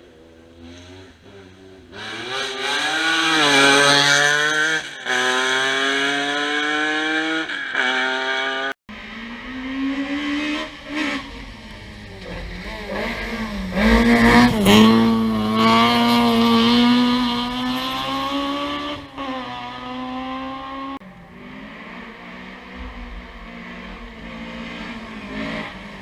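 Historic rally cars accelerating hard past at full revs, the engine note climbing and dropping back through several quick gear changes. The sound cuts abruptly to a second car about nine seconds in, which is loudest as it goes by and then fades away.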